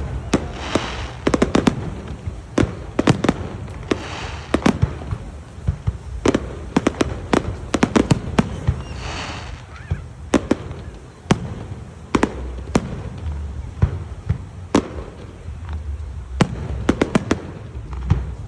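Fireworks going off in rapid, irregular succession: many sharp bangs and cracks, some in quick clusters, with a few brief hissing bursts between them.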